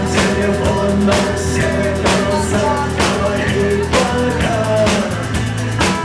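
Rock music: a band playing with a drum kit keeping a steady beat under sustained guitar and bass, with no vocals.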